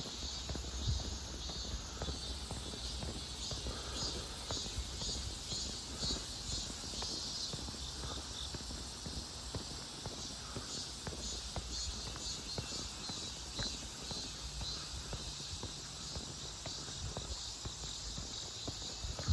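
Steady footsteps of a person walking on a paved road, with insects chirping in a high, evenly pulsing chorus.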